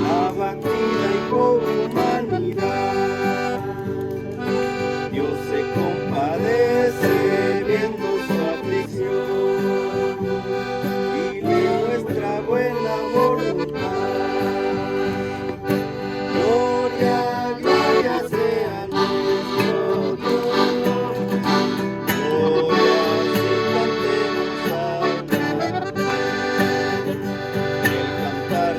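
Music with a held accordion melody over guitar accompaniment, playing without a break.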